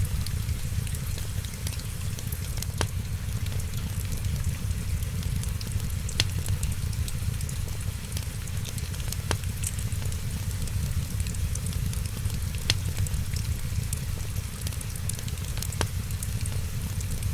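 Fireplace fire crackling, with small ticks throughout and a sharper pop about every three seconds. Under it run a steady low rumble and the hiss of rain.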